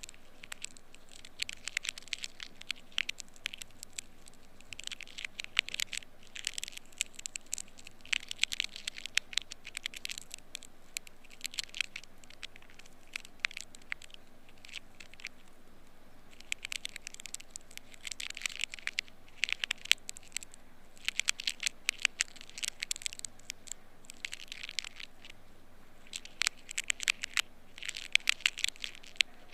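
Ear pick scraping inside the ear canal: dense crisp crackling and scratching in bouts of a second or two, with short pauses between.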